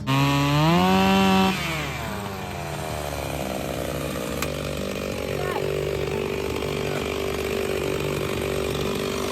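Two-stroke chainsaw revving to full throttle, then dropping in pitch as it bogs into the cut. It runs steadily under load through the wood.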